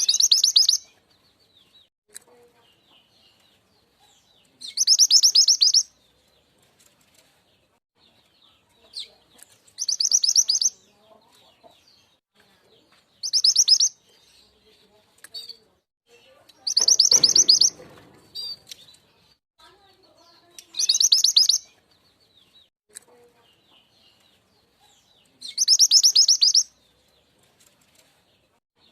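Song of the mantenan gunung (truntung weru), played as a bird-trapping lure: a loud, very high, rapid trill about a second long, repeated seven times at intervals of roughly four seconds, with faint chirps in between.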